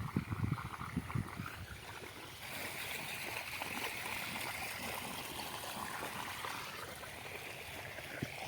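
Irrigation water flowing steadily into a field basin, a rushing hiss that comes up about two and a half seconds in, after a few dull thumps in the first second.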